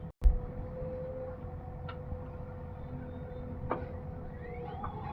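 Diesel engine of a backhoe loader or tractor running steadily, with a loud thump just after the start and a few sharp knocks later.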